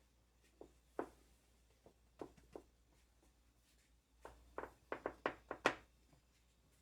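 Light taps and knocks from hands working the dough and tray while folding the snack: a few scattered ones, then a quick run of about seven some four and a half seconds in.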